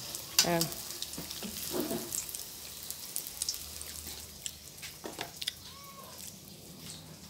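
Lumpia frying in hot oil in a wok: a fine sizzling hiss with scattered clicks of metal tongs, slowly getting quieter. A brief voice-like call about half a second in and another near two seconds are the loudest sounds.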